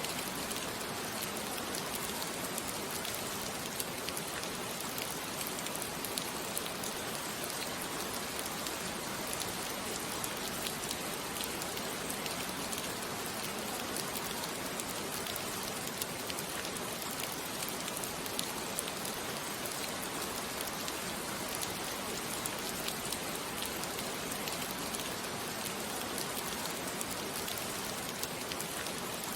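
Steady rain falling, an even hiss with many fine drop patters and no thunder.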